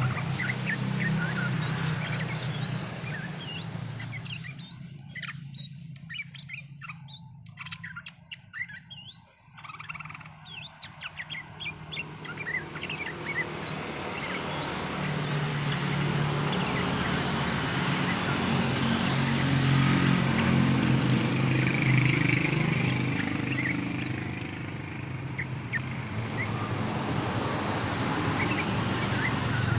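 Yellow-vented bulbuls (trucukan) calling, many short rising chirps overlapping, over a steady background hiss and low hum that falls away for several seconds around the middle.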